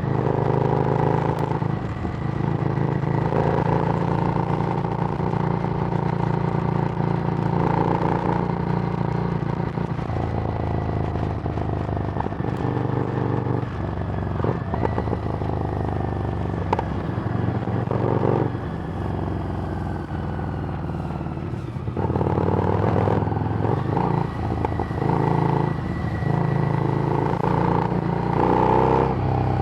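Harley-Davidson Street Rod's 750 cc V-twin running through a Screamin' Eagle exhaust while riding. The engine note eases off about ten seconds in, winds down more quietly with falling pitch, then picks up strongly again a little over twenty seconds in.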